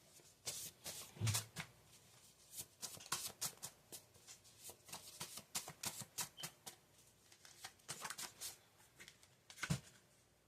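Tarot cards being shuffled and handled: a run of quick, irregular card flicks and snaps, with two dull knocks, one about a second in and one near the end.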